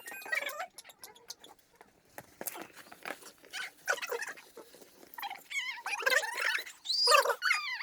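Animal calls, several in a row with bending pitch, coming thicker and louder near the end.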